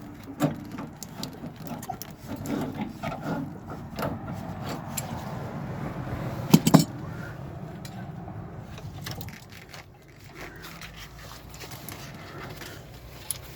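Hand tools and metal plumbing parts clicking, knocking and scraping while a water heater's relief valve fittings are worked on, with two sharp knocks close together about six and a half seconds in.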